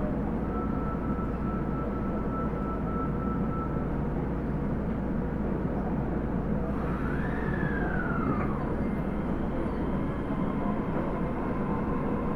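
Osaka Metro 30000 series subway train running, heard from inside the car: a steady rumble of wheels on rail, with the whine of its Hitachi SiC-VVVF inverter drive over it. The whine holds a level pitch at first, rises and falls about seven seconds in, and starts climbing again near the end.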